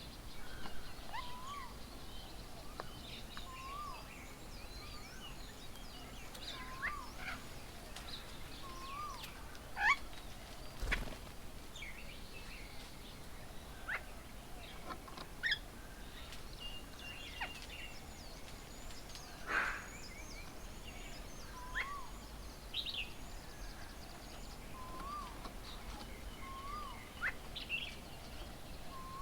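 Several birds calling and chirping, one repeating a short rising-and-falling whistle every couple of seconds under scattered higher chirps. A single sharp click comes about eleven seconds in.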